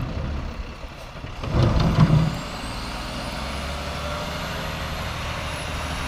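A heavy vehicle's engine running steadily in the snow, with a brief louder burst about a second and a half in.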